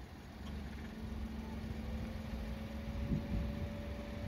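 Distant fireworks heard as a short low thump about three seconds in, over a low rumble and a steady hum.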